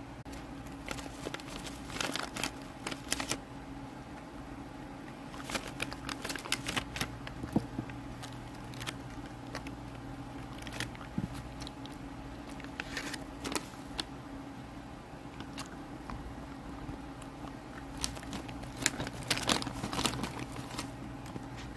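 Close-miked eating sounds: a person chewing and crunching food in short bursts of crackly clicks, with pauses in between, over a steady low hum.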